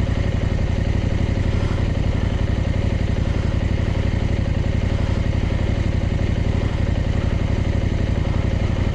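Adventure motorcycle engine running at a low, even speed with a steady note, close to the microphone.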